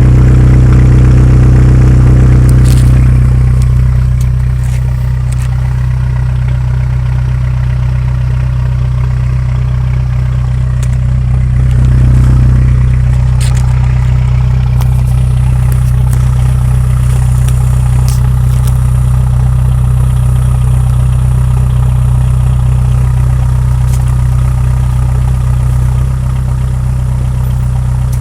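2003 VW Jetta TDI's 1.9-litre turbodiesel four-cylinder idling through a 3-inch performance exhaust. It settles a little lower about three seconds in, with a brief swell in engine sound around twelve seconds in.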